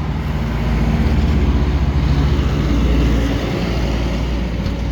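A motor vehicle's engine passing close by: a low running hum that grows louder to a peak about halfway through, then fades.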